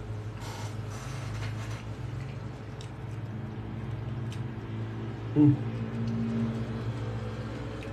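A person chewing a mouthful of cauliflower with small wet mouth sounds, over a steady low hum. About five and a half seconds in comes a short vocal sound.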